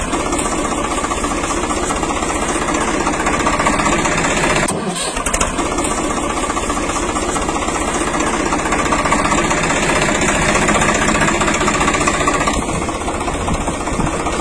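Steady running noise of the mini tractor's small motor, dipping briefly about five seconds in.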